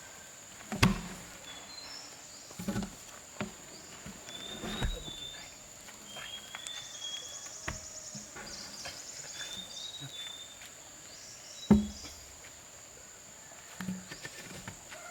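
Insects droning as a steady high tone, with short bird chirps over it. A few sharp knocks cut through, the loudest about a second in and again about three-quarters of the way through.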